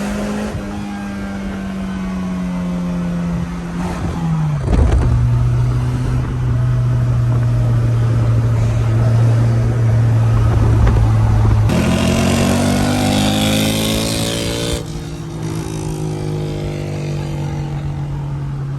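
A car engine is run hard and held at steady high revs. About four and a half seconds in it drops to a lower steady pitch. A harsh hiss joins for about three seconds past the middle.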